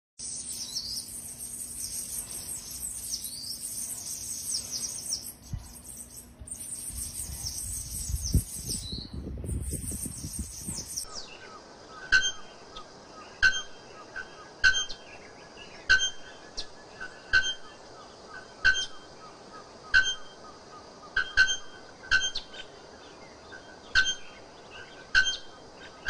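Small birds twittering in quick, high chirps for the first ten seconds or so. Then, after about eleven seconds, a male bare-throated bellbird calls with short, sharp, metallic notes roughly once a second, some in quick pairs.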